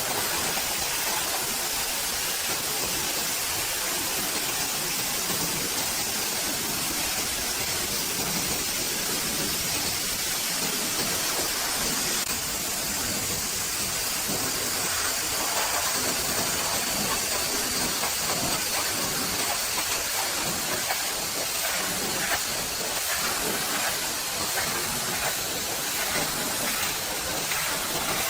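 Pressure washer spraying water onto the truck, a steady hiss that holds at an even level throughout.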